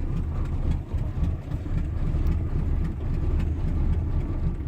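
Carbureted 305 small-block V8 of a 1987 Chevrolet Caprice idling cold with a low, uneven rumble. The choke isn't working, and the owner expects the engine to stall.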